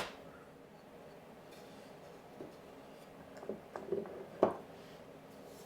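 Faint handling sounds as glue is run along the board ends: a few soft clicks and light knocks, the sharpest about four and a half seconds in.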